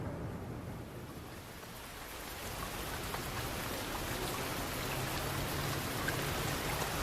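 Steady rain falling: an even hiss with scattered drop ticks, swelling in over the first couple of seconds.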